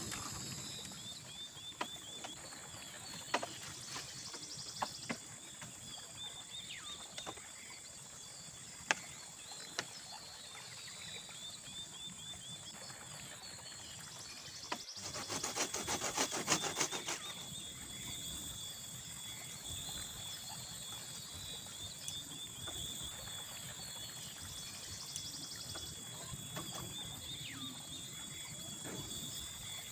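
Dusk insect chorus: a steady high-pitched drone with repeated chirping trills. Several sharp wooden knocks in the first ten seconds, and a brief rush of noise about halfway through.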